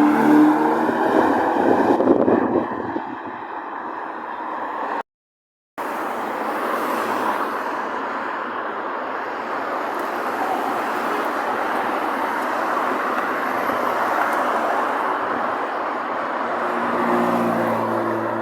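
Cars driving on a road: a steady rush of engine and tyre noise. Near the start and near the end there is a stronger pitched engine note, and the sound cuts out completely for a moment about five seconds in.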